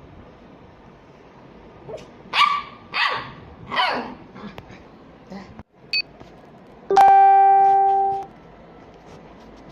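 Small dog barking: three barks in quick succession a little over two seconds in, then fainter yelps. About seven seconds in, a loud held musical tone lasts just over a second and is the loudest sound.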